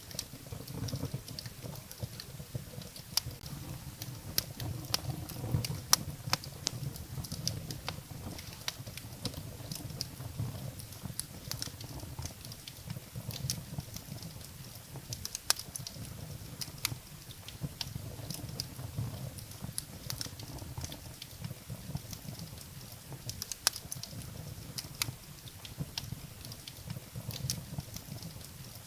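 Wood fire burning in a fireplace, crackling with many sharp, irregular pops and snaps over a low, steady rumble of the flames.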